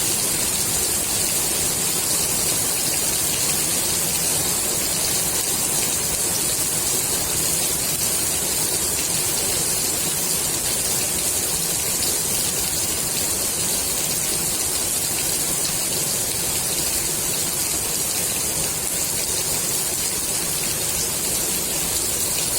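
Rain falling steadily on the water of a swimming pool: an even, unbroken hiss that is brightest in the high range.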